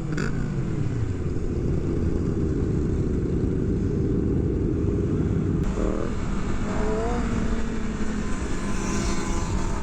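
Motorcycle engines running on a group ride, steady, over a heavy low rumble, with a couple of brief rising revs from bikes in the pack a little past the middle.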